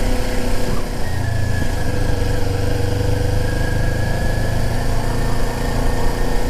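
Sport bike engine running steadily at low speed in first gear while riding. A deeper low rumble swells in about a second in and eases near the end.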